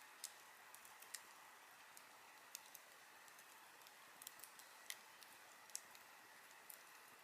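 Wood campfire crackling quietly: irregular sharp pops and snaps over a faint steady hiss.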